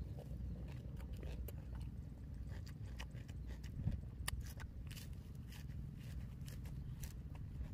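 A person chewing and crunching a lettuce wrap of roast chicken close to the microphone, with irregular sharp mouth clicks over a steady low rumble.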